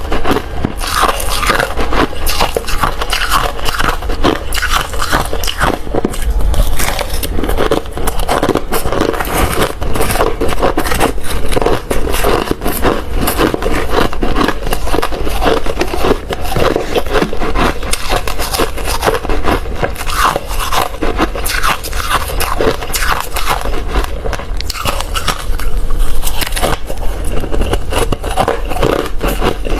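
Close-miked crunching and chewing of ice, a dense, unbroken run of sharp cracks as the ice is bitten and ground between the teeth.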